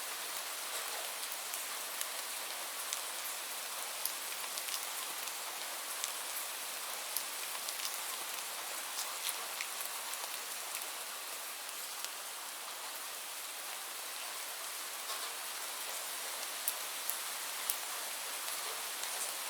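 Steady rainfall, a constant hiss with individual raindrops ticking on a surface scattered throughout.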